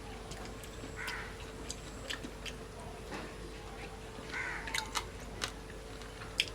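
Someone eating a meal: scattered sharp clicks and taps, with a few short harsh rasping sounds, about three, spread through.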